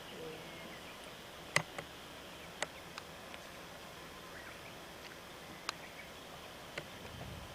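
Faint outdoor background: a steady high hiss with a handful of short, sharp clicks, the loudest about one and a half seconds in.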